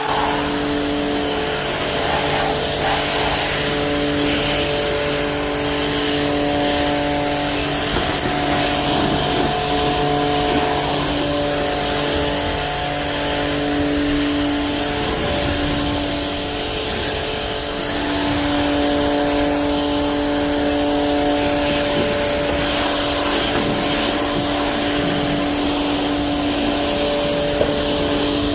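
Karcher K2 cordless pressure washer running: its pump gives a steady hum under the hiss of the water spray as the car is rinsed off. A lower part of the hum drops away about halfway through.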